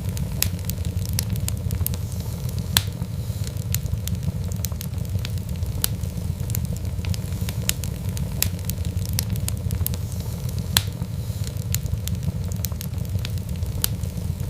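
Wood fire in a fireplace crackling, with a steady low rumble of flame and frequent sharp pops; two pops stand out louder, about three seconds in and again near eleven seconds.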